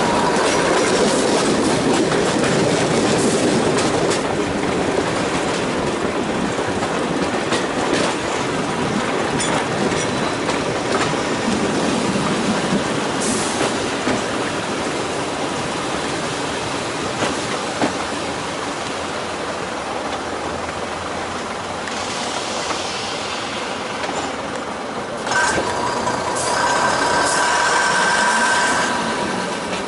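Heritage diesel multiple unit running along the line, heard from a carriage window: a continuous rush of wheels, engine and wind, with occasional clicks of the wheels over rail joints. A steady high-pitched tone joins in about 25 seconds in.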